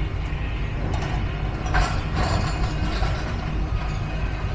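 Heavy demolition machinery working: a steady low engine rumble with metallic clanking and creaking, and one louder crunch about two seconds in.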